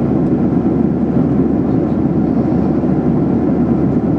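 Steady cabin noise of a Boeing 737-800 in cruise: a low, even rush of airflow and the drone of its CFM56 turbofan engines, heard from inside the passenger cabin.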